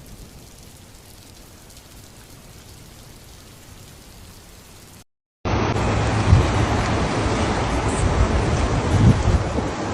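Heavy rain falling as a steady, fairly faint hiss. After a short break about five seconds in, a much louder, rougher rushing of rain and water takes over.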